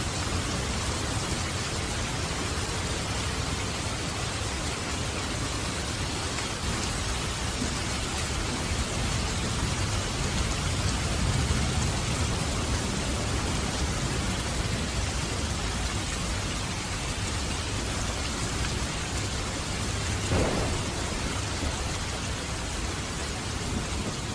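Steady rain with low rolling thunder that swells in the middle, and a brief sharp crack a few seconds before the end.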